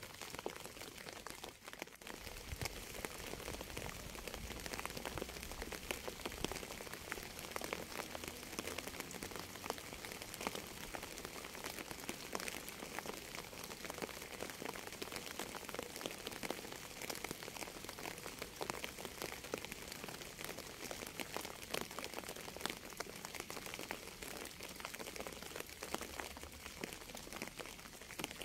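Rain falling steadily, with many separate drops hitting close by as a dense scatter of small, sharp ticks over a soft hiss.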